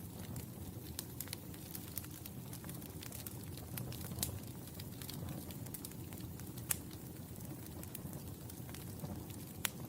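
Wood fire burning in a fireplace: a steady low rumble of flames with scattered sharp crackles and pops, the loudest at about four, seven and just under ten seconds in.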